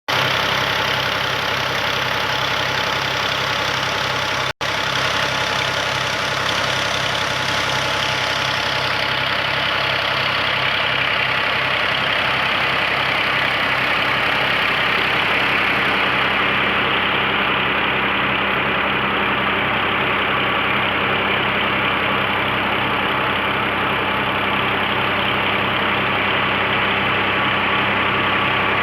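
Tractor engine running steadily at constant speed, driving a tubewell water pump, with an even low pulsing beat; the sound cuts out for an instant about four and a half seconds in.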